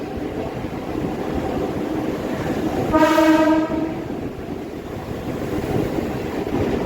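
Mumbai suburban local train running, with one short horn blast about three seconds in.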